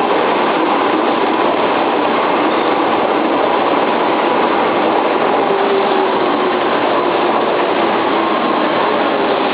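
Docklands Light Railway train running, a loud, steady, even noise with no breaks.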